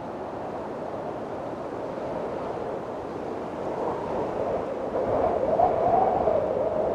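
Windstorm wind blowing steadily, with a gust building about four seconds in and carrying a wavering tone.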